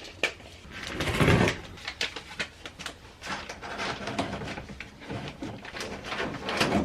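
Rustling, scraping and light knocks as fiberglass insulation batting is handled and stuffed into the van's wall cavities, with a louder scrunch about a second in.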